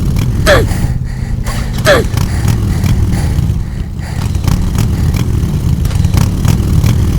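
A small engine running steadily with a low rumble, with two short falling squeals in the first two seconds.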